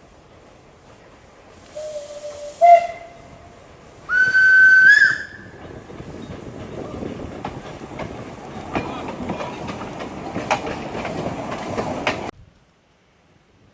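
Narrow-gauge locomotive's whistle: a short lower blast about two seconds in, then a loud higher blast about a second long. The train then runs with rising wheel and rail noise and scattered clicks over the rail joints, until the sound cuts off suddenly near the end.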